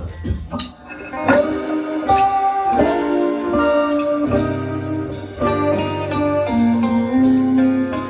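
Live band playing a song's instrumental intro: guitar over a steady beat of drum hits, the full band coming in about a second in and a bass line joining a few seconds later.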